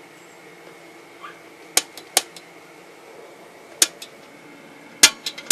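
Kerosene bullet heater running with a steady hum, and sharp clicks: a few single ones about two and four seconds in, then several in quick succession near the end.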